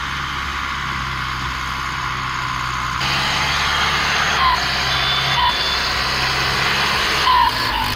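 Heavy truck engine running steadily under a broad mechanical hiss, growing a little louder about three seconds in, with a few short high squeaks in the second half.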